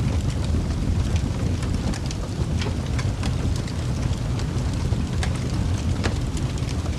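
Wood fire burning in a fireplace: a steady low rumble with scattered crackles and pops throughout, two sharper pops near the end.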